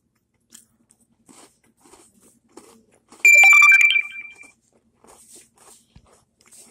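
Crunching and chewing of a crisp chocolate chip cookie, in small crackly bites. About three seconds in, a loud ringing tone sounds for under a second and then fades.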